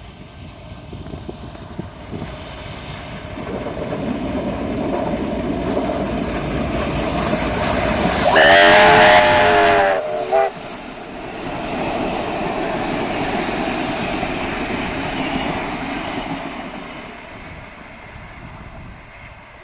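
K-class steam locomotive K153 with its train: running noise that builds over several seconds and then fades. About eight seconds in, its chime steam whistle sounds one long blast, followed by a short toot.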